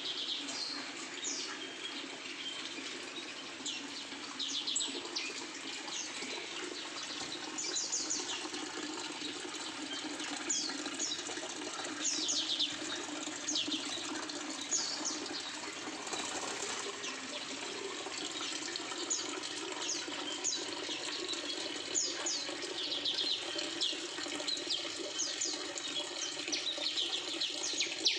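Small aviary birds, among them scaly-breasted munias, chirping: many short, high chirps scattered throughout, over a steady rushing hiss.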